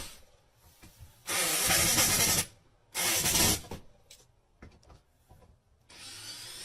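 Two bursts of hissing noise, the first about a second long and the second shorter, with a few faint clicks between them. A quieter steady sound starts near the end.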